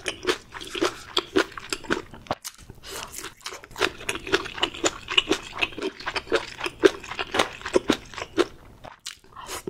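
Close-miked chewing of a bite of donggeurangttaeng, a pan-fried Korean meat patty. It is a run of many short, irregular clicking chews that pauses briefly twice.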